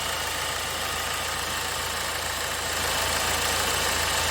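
2009 BMW 320d's four-cylinder diesel engine idling steadily, running smoothly with its intermittent misfire not present for now.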